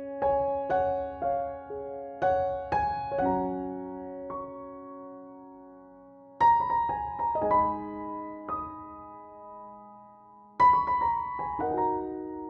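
Background piano music: gentle phrases of struck notes that ring and fade, with a short lull in the middle before new phrases begin.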